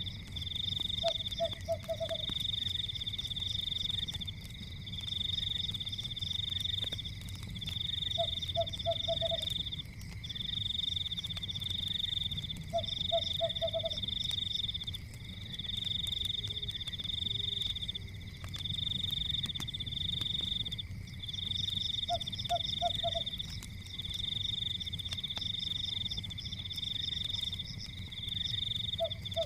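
Night-time animal chorus: a high trill repeating in bursts of about a second with short gaps, over a steady higher drone, and every few seconds a short run of three or four lower croaks. Underneath is a low rumble with faint scattered crackles of a wood fire.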